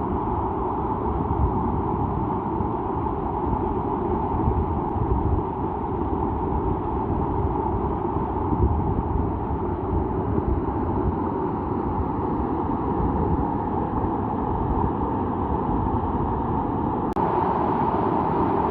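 Steady noise of rain, with wind buffeting the microphone in a flickering low rumble. The sound changes abruptly near the end, where one clip cuts to another.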